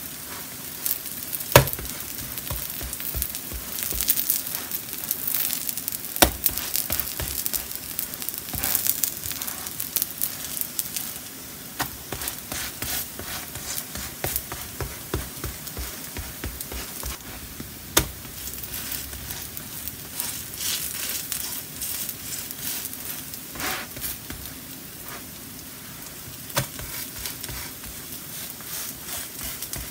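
Potato and vegetable pancakes frying in oil on an electric griddle, sizzling steadily with fine crackles. There are a few sharp clicks of the spatula against the griddle, the clearest near the start and about halfway through.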